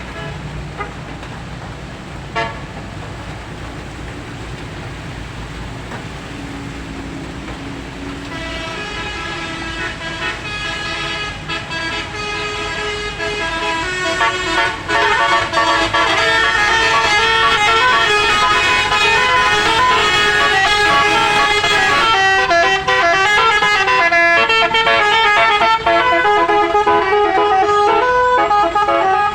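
A low vehicle engine rumble. About eight seconds in, a melody of held, stepping tones begins over it and grows loud, then carries on as a continuous tune.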